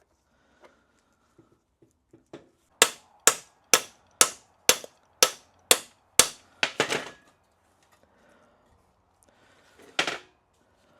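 A hammer strikes the metal of the U-joint and axle yoke: a few light taps, then a steady run of about nine hard blows, roughly two a second, each ringing briefly. One more heavy blow comes near the end. This is the hammering used to seat the new U-joint's bearing caps in the front axle yoke.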